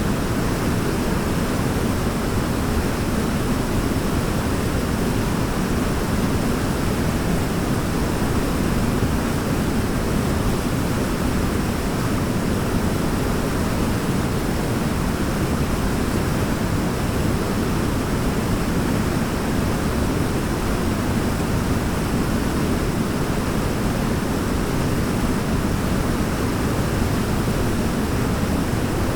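Waterfall: falling water rushing in a steady, even wash that stays the same throughout, heaviest in the low range.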